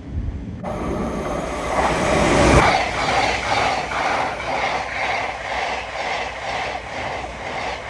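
Passenger train passing close at speed. It comes in suddenly about half a second in, is loudest about two seconds later, then runs on with a quick, even clickety-clack of wheels over the rail joints.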